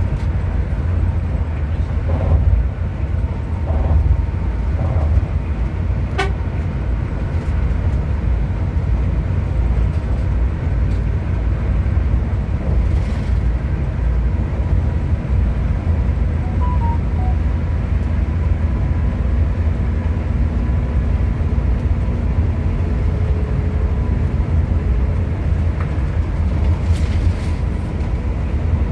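Hino RM 280 diesel coach under way: a steady low rumble of engine and road noise.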